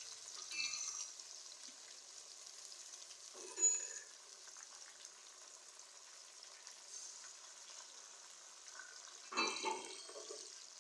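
Onions, tomatoes and ginger-garlic paste frying in hot oil in a pan: a soft, steady sizzle. Twice, about 3.5 s in and again near the end, a brief louder sound rises above it, likely the masala being stirred.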